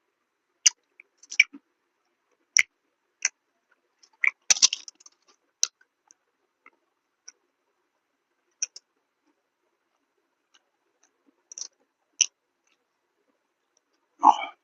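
Close-miked chewing: scattered sharp, wet mouth clicks and crunches at uneven intervals, with a denser run of crunches about four to five seconds in and silence between.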